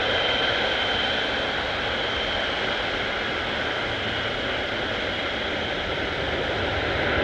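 Boeing 777-300ER's GE90 jet engines running steadily, a held high whine over a broad rumble.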